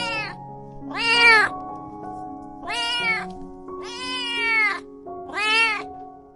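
A domestic cat meowing again and again: about five drawn-out meows, each rising then falling in pitch, over background music with held notes.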